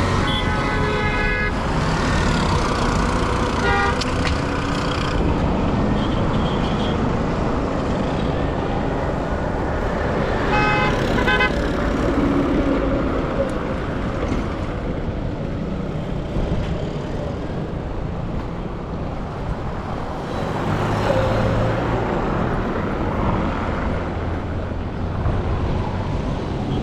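Steady road-traffic noise with vehicle horns: short honks near the start, a brief one about four seconds in, and another cluster of quick honks at about ten to eleven seconds.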